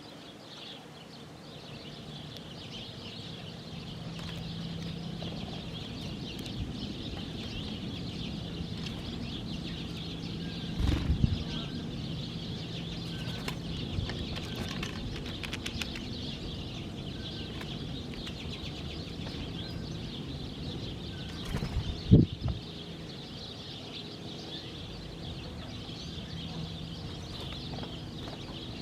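Many small birds chirping and twittering together, a continuous busy chatter, over a low steady hum. There are two brief louder thumps, about eleven seconds in and again about twenty-two seconds in.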